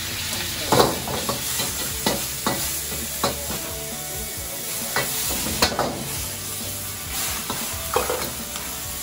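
Sliced meat sizzling hard in a hot iron wok while a metal ladle stirs it, knocking and scraping against the pan in sharp, irregular clanks.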